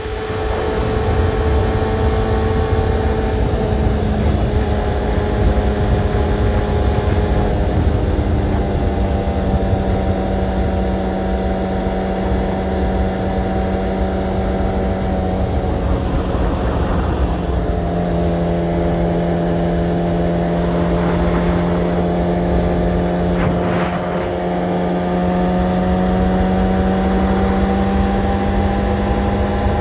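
Sport motorcycle engine running at a steady cruise, with heavy wind rumble on the microphone. The engine note dips about two-thirds of the way through, then slowly climbs again.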